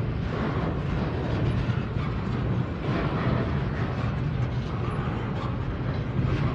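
Double-stack container well cars rolling slowly past on the rails: a steady low rumble of steel wheels on track with faint clicks and clatter.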